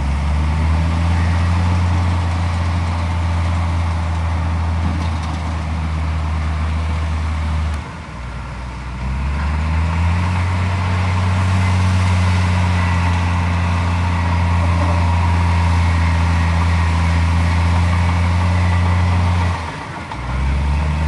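Heavy diesel engine of earthmoving machinery running hard at a steady pitch. It eases off about eight seconds in and rises back up, then dips again briefly near the end.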